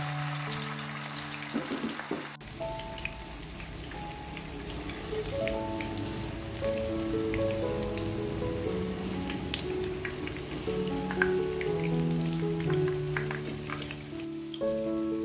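Tofu deep-frying in hot oil, a steady sizzle with small crackling pops, with a melodic background music track playing over it.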